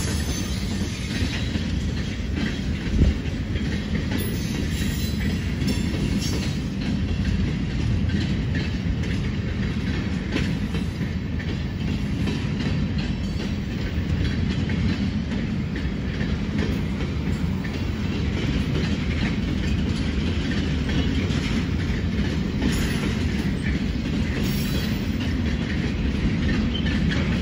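Freight train cars rolling past close by: a steady rumble of steel wheels on rail, with a single sharp knock about three seconds in.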